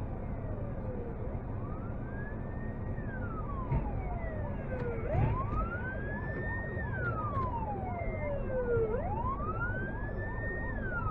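Emergency vehicle siren wailing, its pitch rising and then falling slowly, one cycle about every four seconds, over steady low road and engine rumble.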